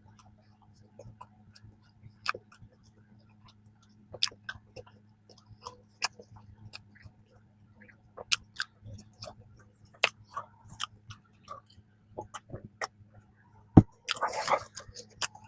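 Chewing soft peanut cream bread: scattered wet mouth clicks and smacks, over a faint steady hum. A sharp click about a second and a half before the end is followed by a brief, louder noisy burst.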